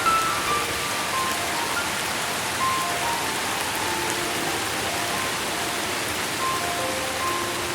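Steady rain falling. Soft, slow music of short, clear bell-like notes at different pitches plays over it.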